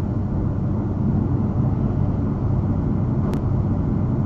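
Steady engine and road noise of a moving car, heavy in the low end, with a faint click about three seconds in.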